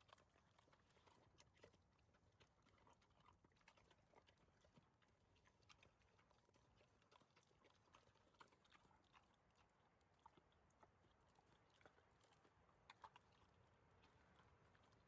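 Faint, scattered chewing and smacking clicks of an animal eating Olivier salad, a little louder twice in quick succession near the end.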